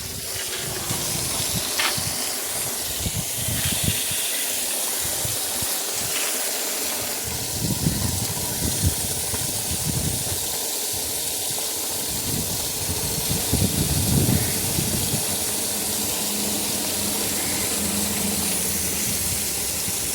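Loud, steady rush of water, heavy rain or water gushing, with low rumbling gusts of wind buffeting the microphone now and then.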